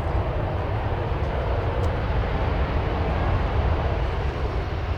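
Jet airliner engines rumbling steadily as the aircraft passes on the runway, swelling slightly a little before the end.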